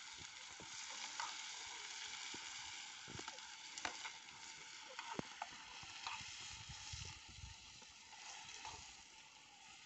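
Chopped onions and tomatoes sizzling in hot oil in a small steel pan, with a spoon stirring and clicking against the pan now and then.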